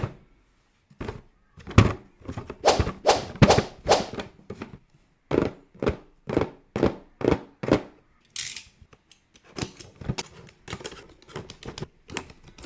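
Toy crawling baby knocking along in a run of thunks, about two to three a second, with a few short pauses and a brief hiss a little past the middle.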